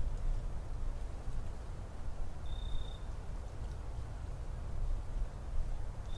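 Outdoor forest ambience: a steady low rumble, with a bird's short, even whistle about halfway through and again at the very end, repeated roughly every three and a half seconds.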